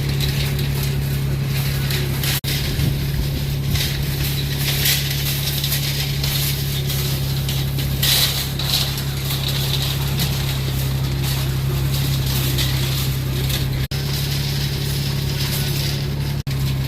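Car driving: a steady low engine drone with road and wind hiss. It cuts out briefly three times.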